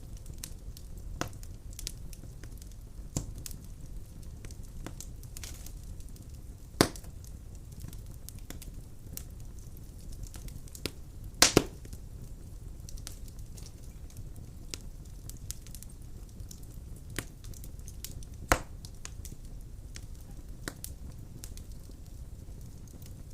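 Wood fire burning in a fireplace: a low steady rumble of flames with frequent sharp crackles and pops of burning logs. The loudest pops come about 7 seconds in, a quick double about 11 seconds in, and another about 18 seconds in.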